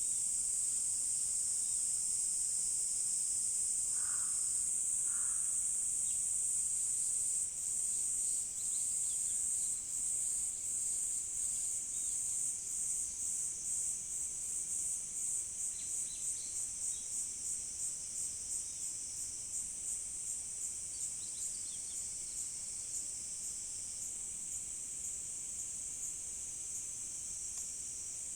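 Insects calling in a shrill, high, continuous chorus. From about seven seconds in, the sound pulses steadily at about two pulses a second. Two brief lower calls sound about four seconds in.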